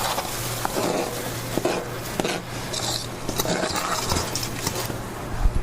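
Kitchen clatter: dishes and metal utensils clinking and knocking irregularly, with a louder knock near the end, over a steady low hum.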